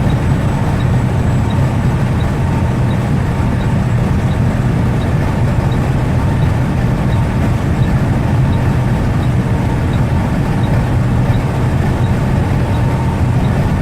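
Western Star heavy truck's diesel engine and road noise heard from inside the cab while cruising, a steady low drone; the engine is held back by a DEF-system derate, running at about 55 mph.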